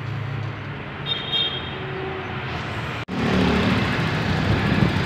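Toyota Revo's 7K four-cylinder engine idling steadily while its air-conditioning is charged and tested. The sound cuts out sharply about three seconds in and comes back louder.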